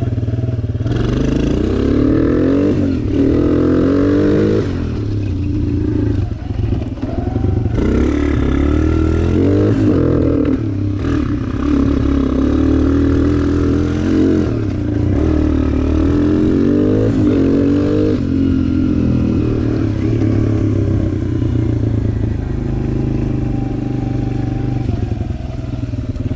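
Suzuki DR-Z125 dirt bike with a 150 big-bore kit, its single-cylinder four-stroke engine revving as it is ridden, the pitch climbing and dropping back several times.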